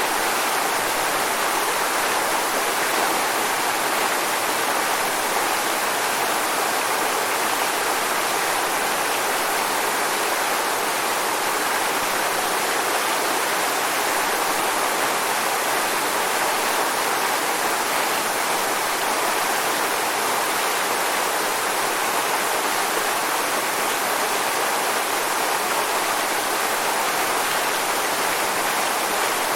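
Waterfall: falling water rushing in a steady, unbroken hiss, with no changes.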